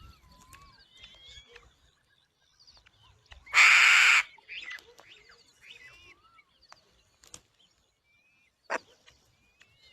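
Birds calling with short gliding chirps and whistles, broken about three and a half seconds in by one loud, harsh, noisy burst lasting under a second, with a sharp click near the end.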